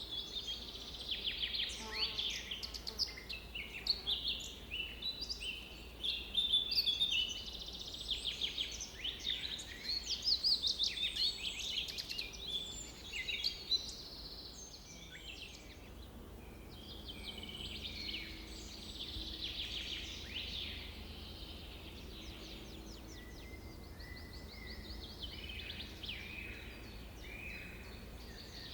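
Several songbirds singing over one another: a chorus of chirps, quick trills and rapidly repeated notes, busiest in the first half. A faint steady low rumble lies underneath.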